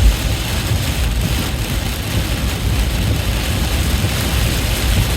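Heavy rain on a moving car, heard as a steady hiss over a low road and engine rumble.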